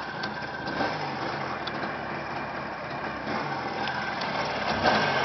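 Jawa motorcycle's two-stroke engine idling steadily.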